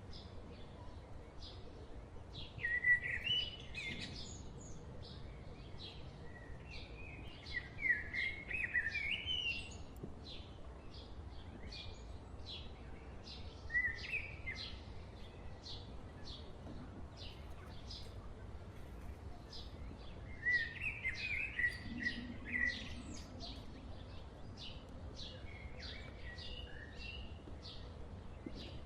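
Birds chirping: a steady run of short, high, rapid chirps, with louder bursts of warbling chirps a few times, over a low steady background hum.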